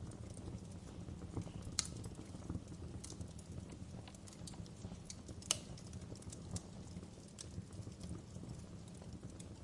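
Wood fire burning with a steady low rumble and irregular sharp crackles and pops, the loudest about two seconds in and again about five and a half seconds in.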